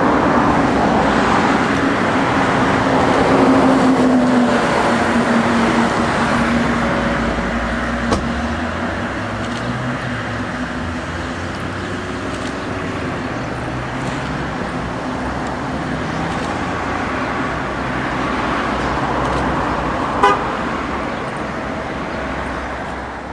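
Chevrolet Corvette V8 idling, its pitch settling lower over the first several seconds and then holding steady. A sharp short click comes about twenty seconds in.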